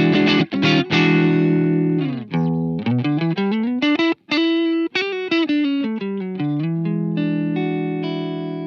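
Telecaster electric guitar played through an EarthQuaker Devices overdrive pedal: strummed chords, then a single-note riff from about two seconds in, ending on a chord left to ring and fade.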